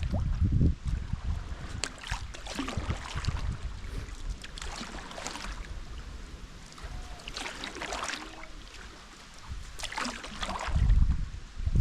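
Paddle strokes splashing in river water from a stand-up paddleboard, about one a second and unevenly spaced, with wind rumbling on the microphone, loudest near the end.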